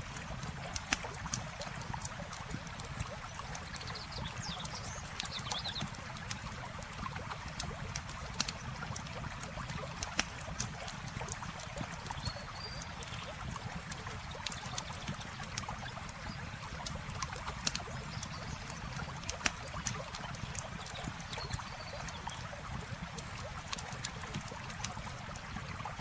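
Campfire crackling, with irregular sharp pops and snaps, over the steady trickle of flowing river water. A few faint high chirps come through now and then.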